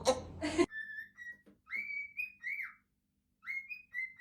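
A pet parrot whistling short, steady high notes in three brief phrases with silent gaps between them. The first moment holds the tail of a person's laughter and talk, cut off abruptly.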